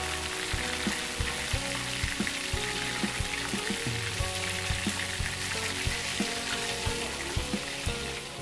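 Battered chicken drumsticks deep-frying in hot oil, a steady sizzle, as a metal spatula turns them. Background music with a regular beat runs underneath.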